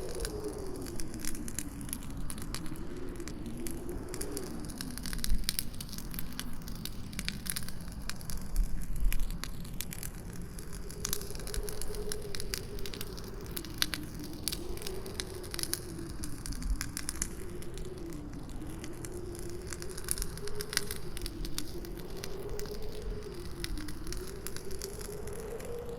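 Campfire crackling and popping in a steady stream of sharp snaps, under a howling wind whose thin moaning tone wavers slowly up and down in pitch. A few louder pops stand out about five and nine seconds in.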